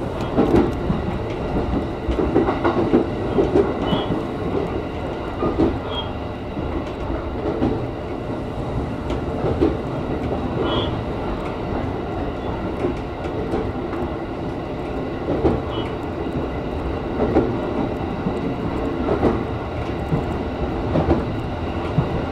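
E233 series 0 electric commuter train running, heard from the front of the car: a steady rumble of wheels on rail with irregular clicks and knocks over the track, and a few short, high squeaks.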